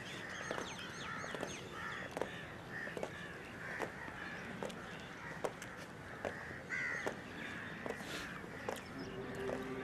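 Birds calling outdoors in short repeated calls, with a louder harsh call about seven seconds in and scattered faint clicks.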